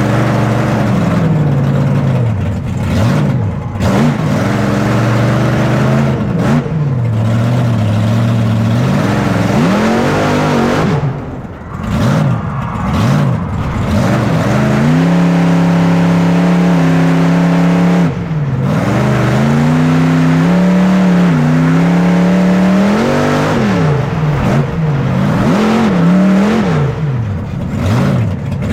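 Monster truck engine revving hard, its pitch sweeping up and falling back again and again, held high and steady for a few seconds past the middle before dropping off.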